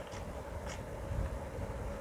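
Eating sounds: two short, soft mouth clicks from chewing over a low steady rumble.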